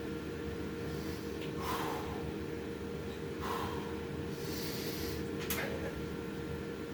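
A man's hard, noisy breaths, short forceful exhales about every one to two seconds from the strain of close-grip pull-ups, with a sharp click about five and a half seconds in, over a steady low hum.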